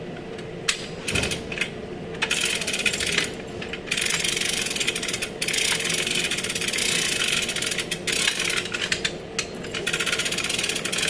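A few metallic clicks, then a power tool running in bursts with a fast, even rattle, as fasteners are worked on during reassembly of a fender and bumper.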